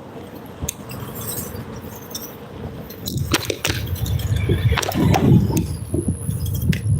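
Bicycle ride: scattered clicks and rattles from the bike. About three seconds in, a louder low rumble from wind on the microphone sets in, with more clicking and rattling over the bumps.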